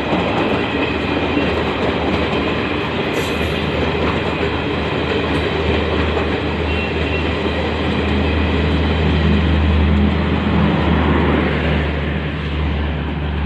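Passenger coaches of the Garib Rath Express running through a station platform at speed without stopping: a loud, steady rush of wheels and bodywork. The low rumble grows stronger in the second half.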